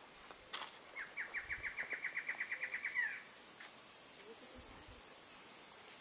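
A bird singing a quick run of about fifteen even notes that come slightly faster towards the end and finish in one louder slurred note, over a steady high hiss.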